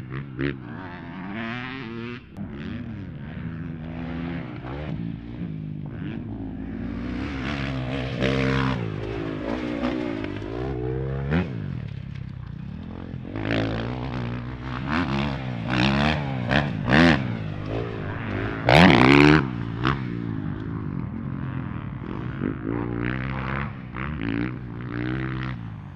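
Motocross dirt bike engine revving up and down repeatedly as it is ridden around the track. A loud burst of rushing noise comes about three quarters of the way through.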